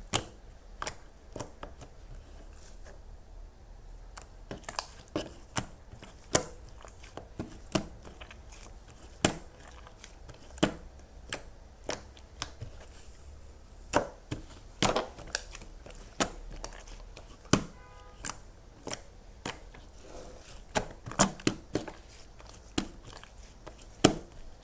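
Crisp crunching crackles from a crunchy material being worked by hand, sharp and irregular, about one to three a second.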